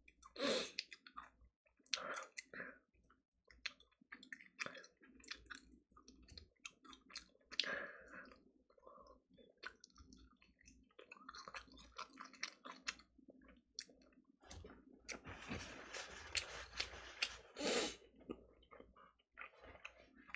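Faint, irregular chewing and gnawing on a piece of fried chicken, with scattered short mouth clicks and a longer stretch of rustling noise near the end.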